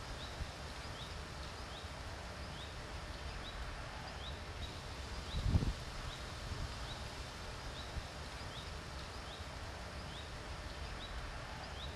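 A bird repeating a short rising chirp about twice a second over a steady outdoor hiss, with a brief low rumble about five and a half seconds in.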